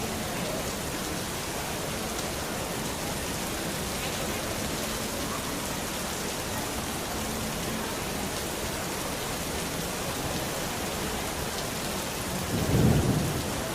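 Steady heavy rain falling, with one short low rumble of thunder near the end, the loudest moment.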